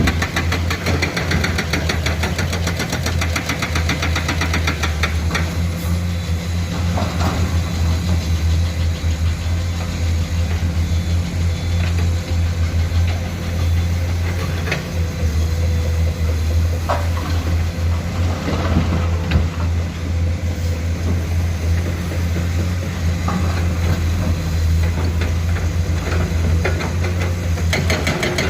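Excavator diesel engine running steadily with a fast, even knocking beat, with a few short sharper knocks scattered through.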